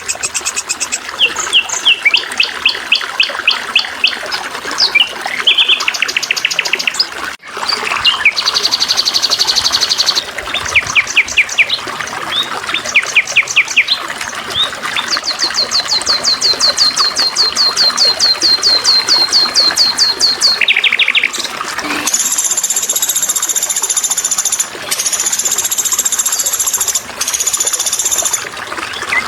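Songbirds calling in fast, evenly repeated chirps and trills at changing pitches, over a steady trickle of water. About 22 s in, it switches to a different, higher call in long stretches with short breaks.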